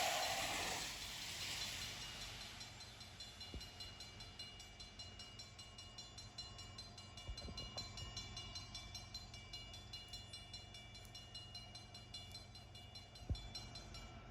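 Train rolling past, faint, its wheels clicking in a quick even rhythm of about four a second, with thin steady high tones over it. A louder passing sound fades out at the start, and a single sharper knock comes near the end.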